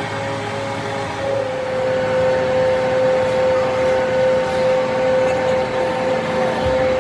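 A machine running with a steady whine over a noisy background; the whine gets louder about a second and a half in.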